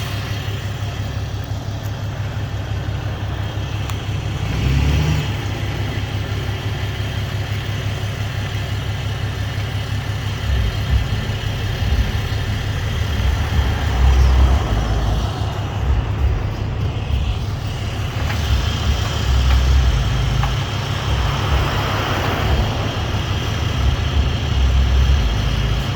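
Truck engine running steadily, with repeated surges of louder low engine revving through the second half.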